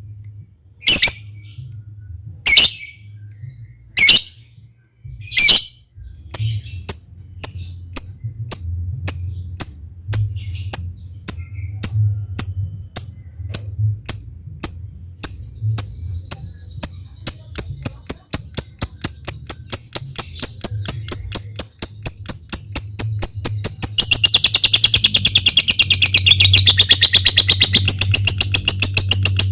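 Lovebird singing: a few loud separate chirps, then short ticking notes that come faster and faster. Near the end they run together into a long, continuous chattering trill, the 'ngetik' ticking that leads into the long 'ngekek' song.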